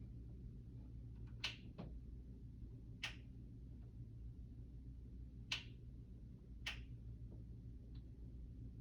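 Four sharp clicks, one to two and a half seconds apart, with a couple of fainter ticks between, over a steady low hum.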